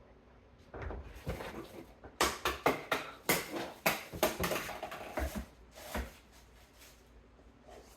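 A quick, irregular run of knocks and clatters, like hard objects being handled and set down, from about a second in to about six seconds in.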